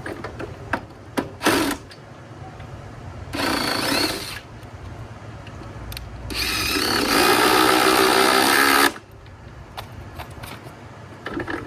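Power drill run twice, first for about a second, then for about two and a half seconds, backing out fasteners to take a part off. A few clicks and knocks come before the first run.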